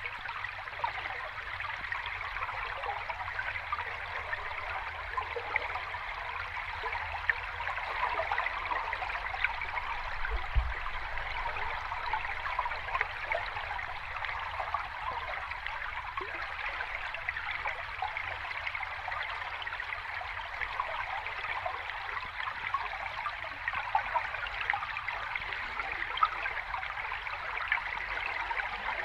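Running water in a small cascade, splashing and gurgling steadily over rocks.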